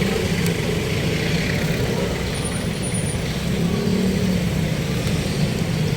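Road traffic: motor vehicle engines running with a steady hum and road noise.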